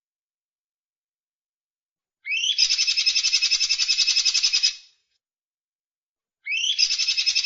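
A songbird calls twice, a few seconds apart. Each call opens with a short rising note and runs into a fast, high, even trill of about eight notes a second, lasting two to three seconds.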